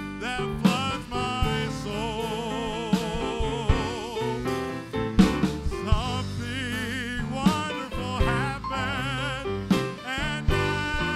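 Gospel song: a voice singing with a wide vibrato over instrumental accompaniment with a steady drum beat.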